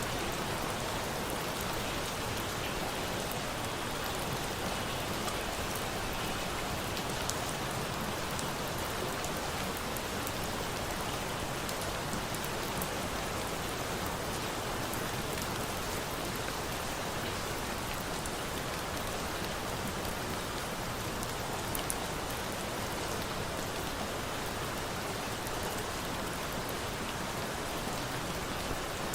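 Steady rain falling on a surface: an even, dense hiss, with a few sharp ticks now and then.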